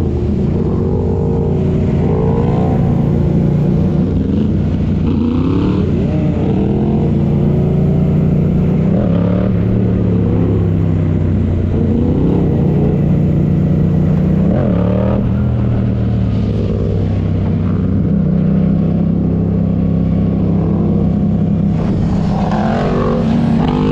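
Motorcycle engine running steadily, with brief shifts in engine pitch about 9 and 15 seconds in and short rising glides now and then.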